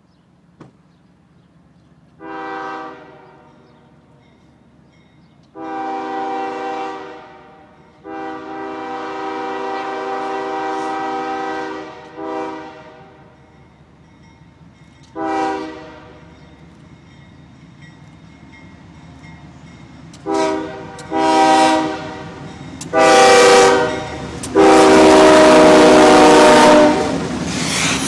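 Diesel locomotive air horn sounding a series of blasts as an approaching freight train nears. There are short and long blasts, several tones sounding together, and they grow louder as the train closes in. The last blast is the longest and loudest, about two seconds long, and rising rumble from the train comes in underneath it near the end.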